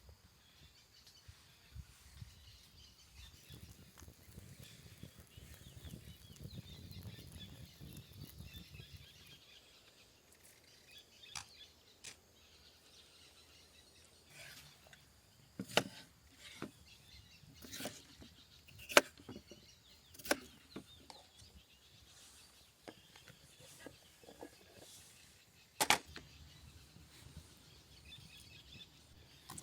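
A handful of sharp separate cracks and knocks in the second half, the loudest two near the end, over faint birdsong.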